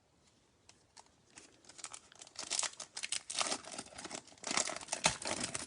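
Foil wrapper of a Bowman Chrome baseball card pack being torn open and crinkled, in irregular crackly bursts that build up, loudest around the middle and again near the end.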